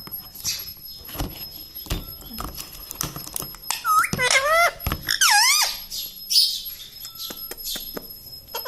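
Ringneck parrot making squeaky, wavering calls in a quick run about four to six seconds in, with another call near the end, among scattered sharp clicks and knocks.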